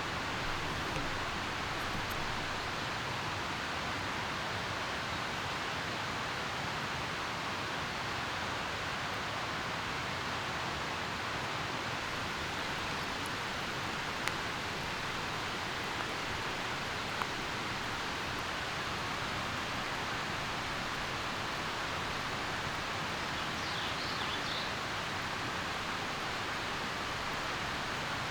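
Steady rain falling, an even hiss with a few faint taps. A brief high chirp comes near the end.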